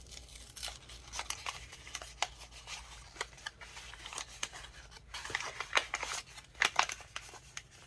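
Small packaging being worked open by hand: quick rustling and crinkling with many short, sharp clicks and snips scattered throughout.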